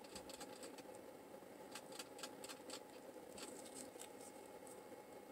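Faint, irregular small clicks and light scraping of a soap loaf and its cutter being handled during cutting, over a low room hum.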